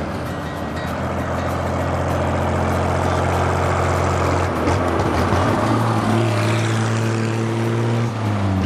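An engine running steadily, its pitch stepping up to a higher steady speed about halfway through.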